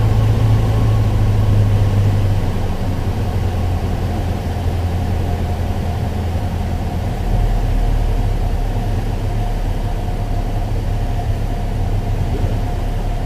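Piper Archer's Lycoming four-cylinder engine running, heard from inside the cockpit with steady wind and airframe hiss. The engine note drops about two seconds in as power comes back for the landing, then runs on steadily near idle.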